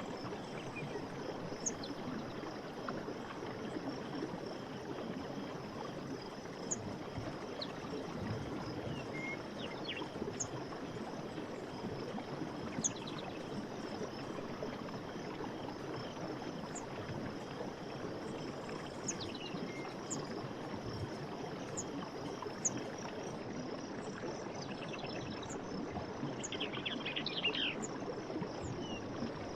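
Night forest ambience: a steady rush of flowing water under insects chirping, with a high steady insect drone, short high chirps repeating every second or two, and a brief trill near the end.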